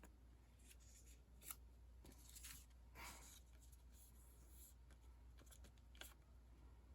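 Faint rustling and light clicks of sticker sheets and their plastic sleeves being handled, a few short brushes over several seconds against a quiet room hum.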